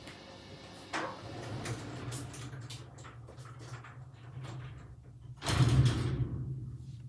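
Hoover H-Wash 300 washing machine drum turning during the wash: a low motor hum starts about a second in and stops near the end, with knocks and the swish and slosh of wet laundry tumbling, loudest about three-quarters of the way through.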